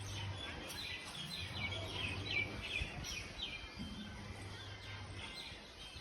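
Small birds chirping in quick runs of short, high notes, busiest in the first half and again briefly near the end, over steady outdoor background noise with a faint low hum coming and going underneath.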